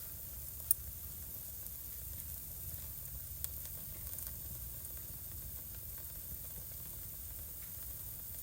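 Wood fire in a fireplace crackling steadily over a low rumble of flames, with a sharp pop a little under a second in, another about three and a half seconds in, and fainter ticks between.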